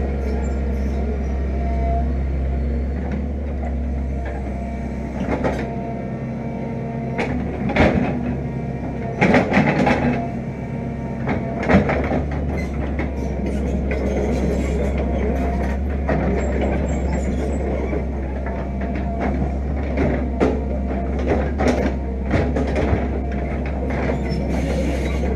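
Fiat-Hitachi EX165 crawler excavator's diesel engine running steadily under digging load, with metallic clanks and knocks at intervals, heaviest about eight to twelve seconds in and again a little after twenty seconds.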